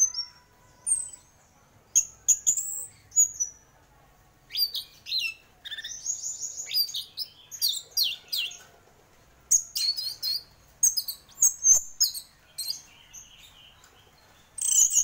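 Orange-headed thrush singing: quick, varied phrases of high, sweeping whistles and trills, in short bursts separated by brief pauses.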